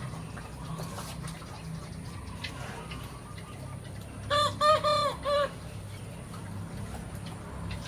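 A rooster crows once, about four seconds in: one call of four linked notes. A steady low hum runs underneath.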